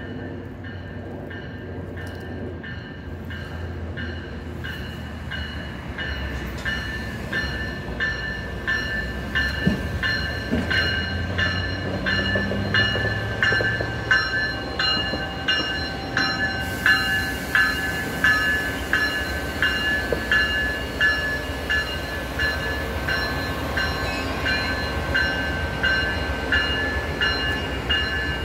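A MARC commuter train approaching, its low rumble growing louder, while a bell rings in a fast steady rhythm of about two strokes a second.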